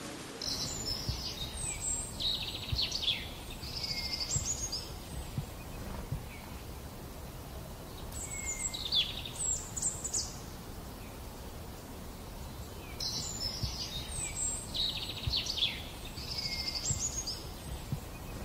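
A songbird singing a quick, complex phrase three times with pauses between, over steady low outdoor background noise.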